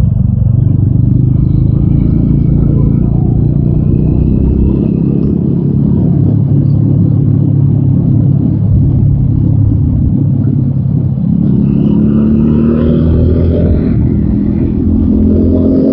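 TVS Apache RTR 200 4V single-cylinder engine running under way with a steady low rumble, then rising in pitch over the last few seconds as the bike accelerates.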